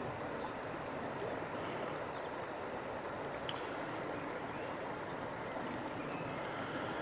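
Steady rush of a fast, high-running river in flood. Small birds twitter faintly high above it, in a few short runs.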